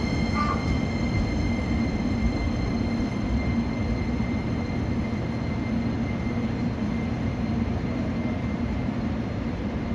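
Steady low rumble and hum of electric trains at the station, with a faint steady high whine that fades over the first few seconds. One short higher sound comes about half a second in.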